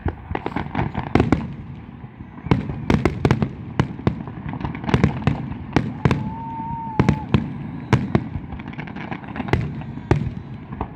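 Fireworks exploding in a rapid, irregular volley of sharp bangs, several a second, with a short whistling tone about six seconds in.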